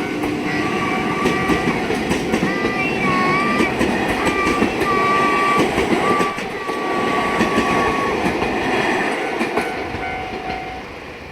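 A train passing over a level crossing, its wheels rolling and clacking over the rail joints, with a wavering high squeal that comes and goes through the middle. The sound fades away near the end.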